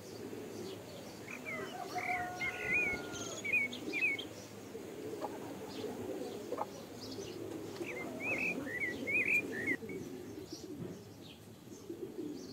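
Birds chirping in short, quick calls, in two spells: one about two seconds in and another about eight seconds in.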